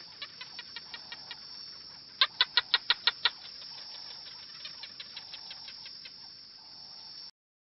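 An animal's rapid series of sharp chirps, about seven in a second and loudest a little after two seconds in, with fainter runs of chirps before and after over a steady hiss. The sound cuts off suddenly near the end.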